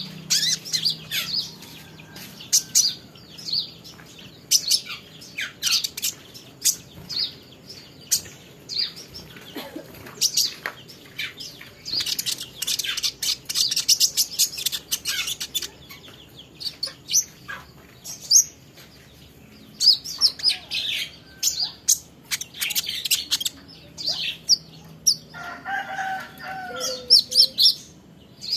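Small songbird chirping in rapid, sharp, high notes throughout, in dense runs at times. Near the end, a lower, longer call, perhaps from another bird, lasts a couple of seconds.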